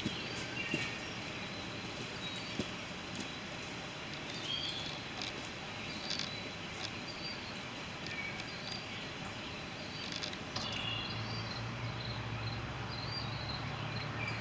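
Outdoor field ambience: a steady hiss with short, faint high-pitched chirps scattered through it and a few soft clicks. A low steady hum comes in near the end.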